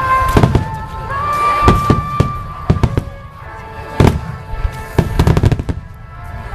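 Aerial firework shells bursting in quick succession: sharp echoing bangs, with a dense run of rapid bursts about five seconds in. Music plays along with the bursts.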